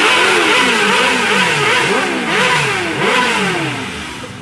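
Several sport motorcycles accelerating hard through the gears one after another, each engine's pitch rising and then dropping at every upshift, fading off near the end.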